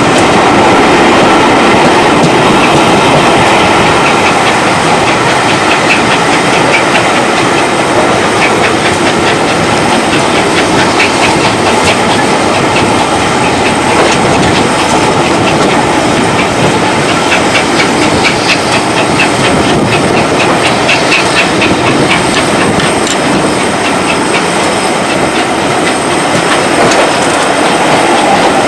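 Train running steadily along the track: continuous rumble and rattle of the carriage wheels, with stretches of rapid clicking over the rail joints.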